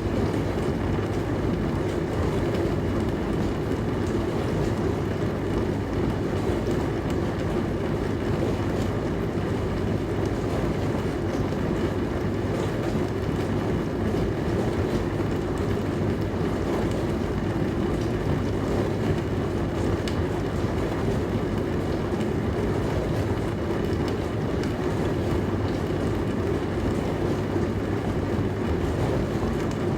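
Dishwasher running: a steady, even wash noise over a low constant hum, unchanging throughout.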